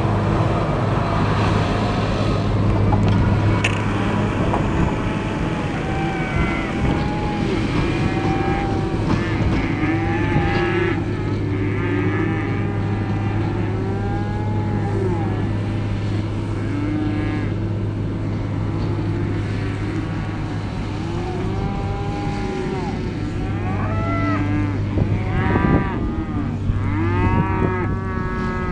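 Cattle mooing, many calls overlapping and growing busier toward the end, over the steady hum of a diesel engine running.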